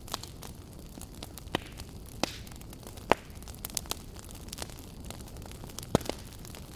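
Wood fire burning in a fireplace: a steady low rush with irregular sharp crackles and pops, the loudest about a second and a half, two, three and six seconds in.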